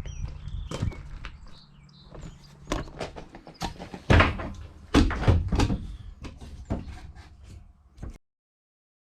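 A string of sharp knocks and clatters from the plastic body and parts of a porta-potty being handled, with the loudest strikes about four and five seconds in. The sound cuts off abruptly near the end.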